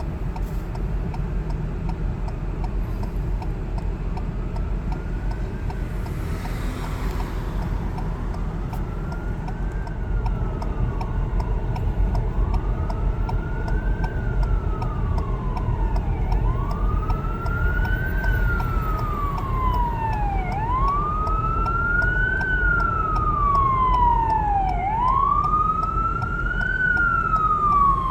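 Fire truck siren on a wail, rising and falling slowly about once every four seconds, faint at first and growing louder as the truck approaches, over a steady low rumble of engine and traffic.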